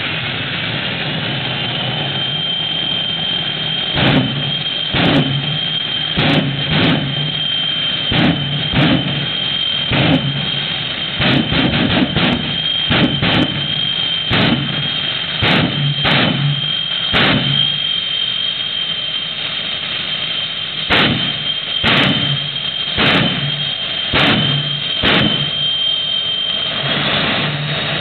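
Turbine engine of a 1957 Chevy jet truck running with a steady high whine that climbs in pitch over the first couple of seconds and then holds. From about four seconds in until near the end, a long irregular series of short, sharp, loud bursts breaks over the whine, each with a low rumble under it.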